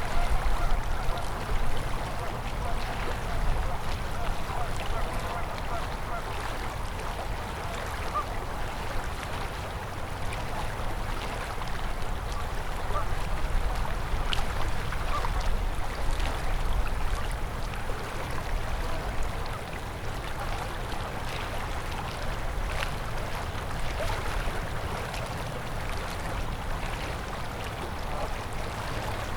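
Winter river flowing steadily past ice and snow, a continuous rush of water.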